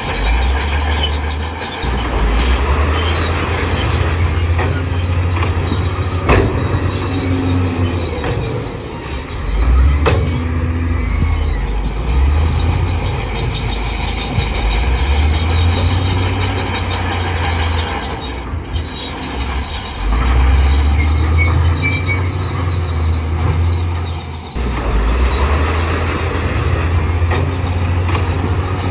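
Crawler bulldozer working: its diesel engine rumbles and surges under load every few seconds while the steel tracks squeal and clank, with an occasional sharp knock of rock or metal.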